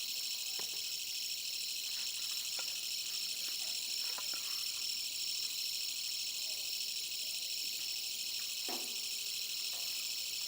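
A steady chorus of insects chirring, with a few faint knocks and clicks below it.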